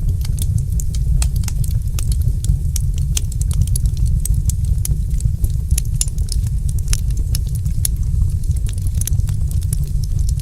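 Wood fire crackling, with many sharp pops and snaps over a steady low rumble.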